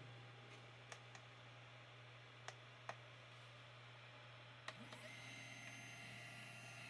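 Freshly powered budget 3D printer, faint: a steady low hum with a few scattered clicks, then about five seconds in a set of high, steady whining tones starts up from the printer's electronics and motors.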